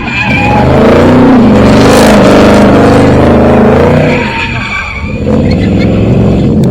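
A car spinning its tyres, its engine revving hard and wavering up and down in pitch with tyre squeal over it. The loudness drops for a moment about four to five seconds in, then the engine comes back up.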